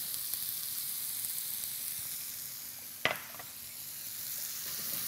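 Shrimp and onion sizzling in butter in a pan as they brown, a steady frying hiss. A single sharp tap sounds about three seconds in.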